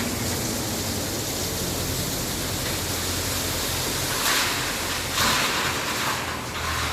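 Steady rushing noise with a faint low engine hum underneath, from heavy road traffic; two short hissy bursts come about four and five seconds in.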